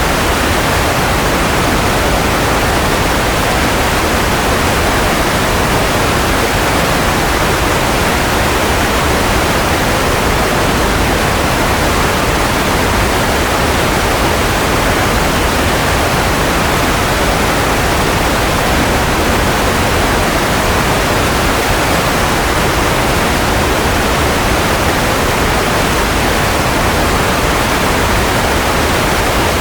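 Continuous white noise: a steady, even hiss spread across low and high pitches, with no change in level.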